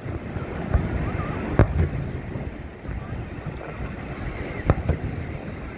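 Fireworks going off in a few sharp bangs, the loudest about a second and a half in and near the end, over a steady rumble of wind on the microphone.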